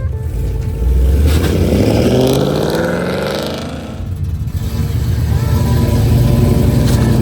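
A car engine accelerating: its pitch rises steadily for about three seconds, drops away about four seconds in, then the engine carries on running steadily.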